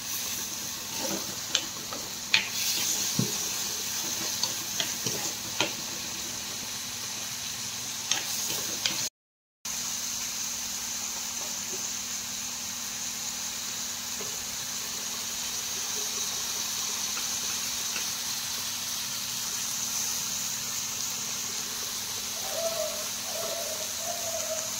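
A stir-fry sizzling in a pan, a steady high hiss, with scattered clicks and scrapes of a spoon against the pan in the first several seconds. The sound cuts out briefly about nine seconds in, then the sizzle carries on with no stirring.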